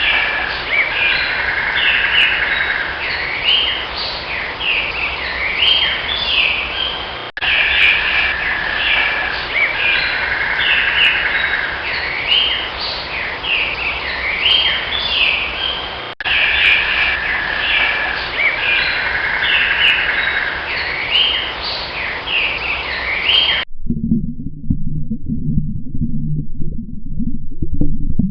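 Birds chirping and calling in a dense chorus of short, sliding notes. Near the end it cuts abruptly to a low, pitched rumbling sound.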